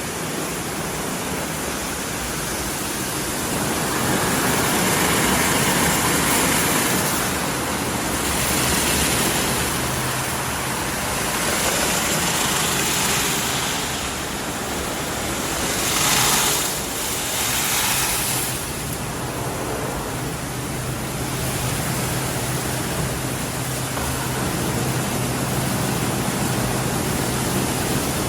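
WashTec SoftCare Pro Classic rollover car wash running: loud rushing water noise that swells and eases every few seconds, over a steady low machine hum.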